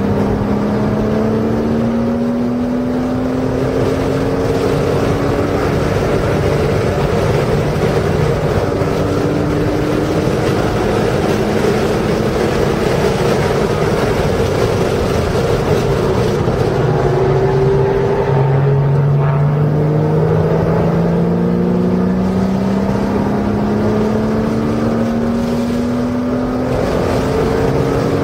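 Porsche's engine heard from inside the car on track, over steady wind and road noise. It pulls under throttle with its pitch climbing slowly, falls away around the middle as the brakes come on, then climbs again under throttle.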